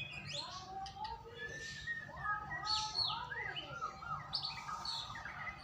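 White-rumped shama (murai batu) singing: a continuous run of varied, clear whistled phrases with rising and falling glides and quick note changes.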